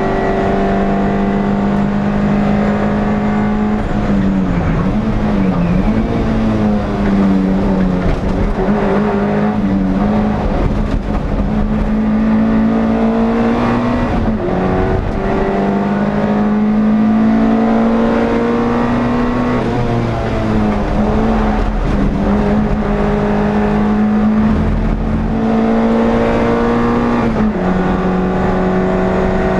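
NSU TT race car's air-cooled four-cylinder engine heard from on board, running hard at high revs. The pitch drops and climbs back several times as the driver lifts and changes gear, about four, fourteen, twenty and twenty-seven seconds in.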